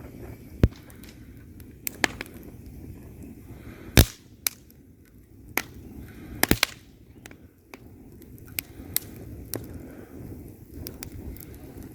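Wood fire burning in a fireplace: a low steady rumble of flames with sharp crackles and pops at irregular intervals, the loudest about four seconds in and a quick cluster of three pops past the middle.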